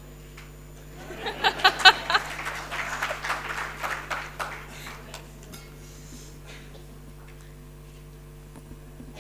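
Audience applause that swells about a second in with a short burst of voices at its start, then dies away about five seconds in.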